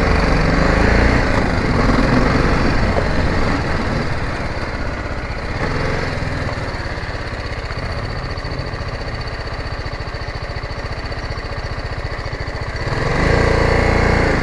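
Motorcycle engine running under way as the bike is ridden. It is louder over the first few seconds, settles lower, then rises again about thirteen seconds in.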